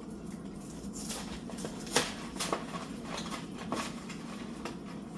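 Kitchen handling noises: several short clicks and knocks of things being picked up and set down, the loudest about two seconds in, over a steady low hum.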